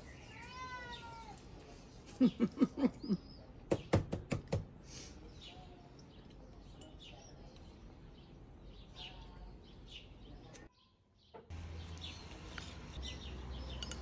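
Small garden birds chirping in short, scattered calls. About two seconds in there is a short run of loud pulsing vocal sounds, then a quick series of sharp clicks around four seconds.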